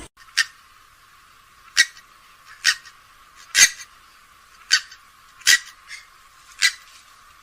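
Grey-headed swamphen giving short, sharp calls, one about every second, eight in all.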